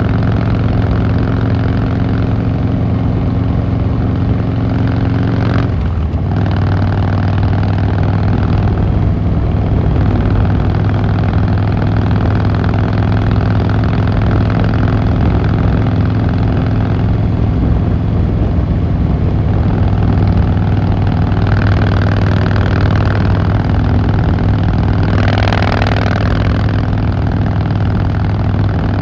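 Harley-Davidson Fat Boy Lo's V-twin engine and exhaust running steadily under way, with a brief break and change in engine note about six seconds in. There is a short burst of rushing noise a few seconds before the end.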